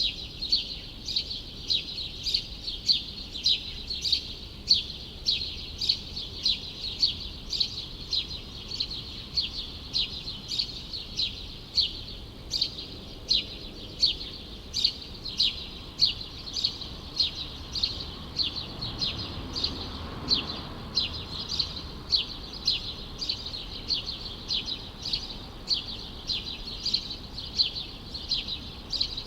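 A small songbird chirping over and over, short high chirps at about two a second without a break. About twenty seconds in, a faint low rumble swells and fades under it.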